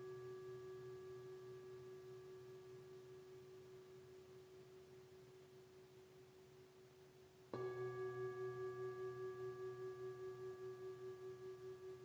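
A singing bowl's ringing tone fades slowly with a wavering pulse. About seven and a half seconds in the bowl is struck again and rings out loud, with several clear overtones above its main tone.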